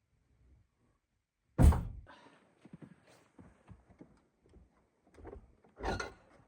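A heavy thud about a second and a half in, a run of light knocks after it, and a second, softer thud near the end.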